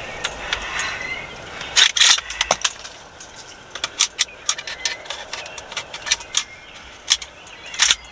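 Irregular sharp clicks and light rustling, a dense cluster about two seconds in and scattered ticks after.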